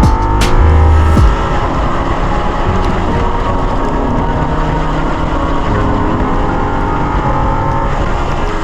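Mercedes OM605 five-cylinder diesel in a drift-built Ford Ranger mini truck running hard. There is a heavy low rumble in the first second or so, and the engine note rises and falls.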